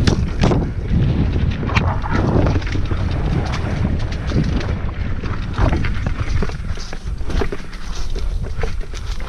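Mountain bike ridden over a rough dirt trail, heard from a camera mounted on the bike: a steady wind rumble on the microphone with constant irregular rattles and knocks from the bike jolting over the ground.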